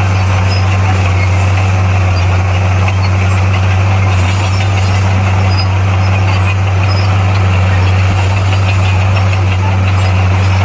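Bulldozer's heavy diesel engine running at a steady, even speed, a deep, unchanging drone.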